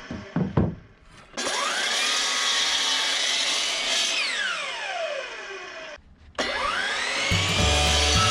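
Electric miter saw spinning up to speed with a rising whine, running, then winding down with a falling whine, then starting up again after a short break. A few knocks come near the start, and background music with a low beat comes in near the end.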